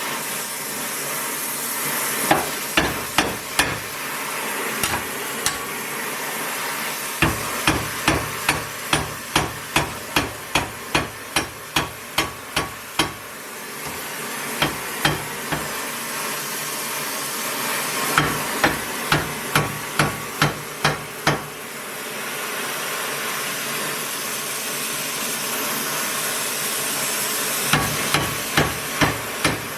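Hammer blows struck in steady runs of about two a second, in four bouts with short pauses between them, over a steady hiss.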